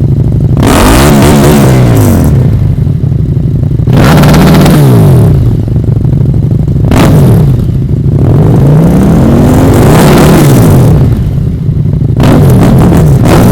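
Big twin-cylinder sport motorcycle with an aftermarket exhaust being revved hard while standing: about five throttle blips, each rising and falling in pitch.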